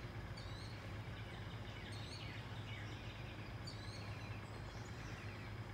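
Faint birds chirping a few short calls over a steady low background hum.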